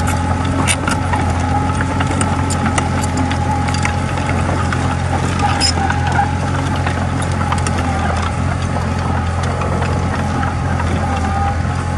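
Komatsu D20A crawler bulldozer's diesel engine running steadily at a constant speed, with scattered sharp metallic clicks over the engine sound.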